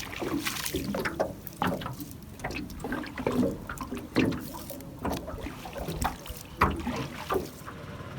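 Short, irregular splashes and drips of water around a small boat on the water, one every half second or so.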